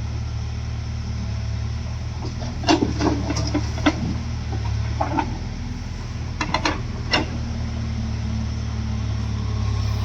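Diesel engine running steadily at idle, with a few short sharp knocks and clanks about a third and two thirds of the way through.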